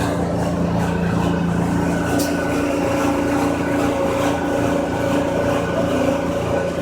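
A machine running steadily at an unchanging speed: a continuous hum with several held tones.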